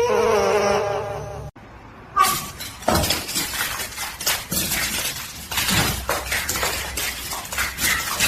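An animal's wavering, pitched cry lasting about a second and a half, cut off suddenly. Then a run of sharp clattering knocks and clinks of hard objects, like things being knocked over and breaking.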